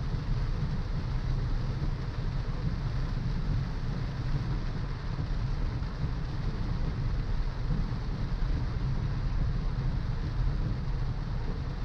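Car driving in the rain: a steady low road and engine rumble with the hiss of rain and tyres on wet road.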